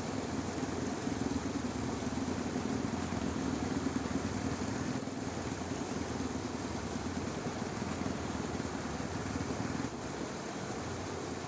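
Dense chorus of frogs in a flooded rice field, a steady low pulsing din that eases a little about ten seconds in.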